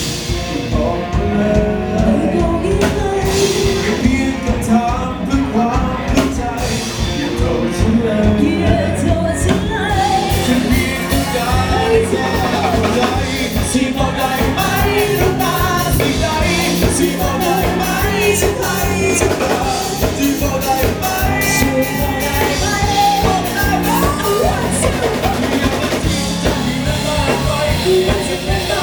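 A band playing a song, with a singer over the instruments and drums.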